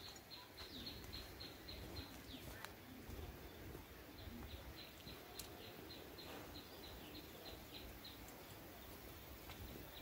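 A bird repeating a short, high chirp about three times a second, faint against quiet woodland background.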